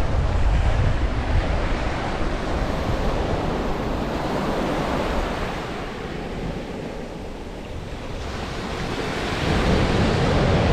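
Ocean surf washing onto a beach, with wind buffeting the microphone as a low rumble. It eases off for a couple of seconds past the middle, then swells up again about eight seconds in.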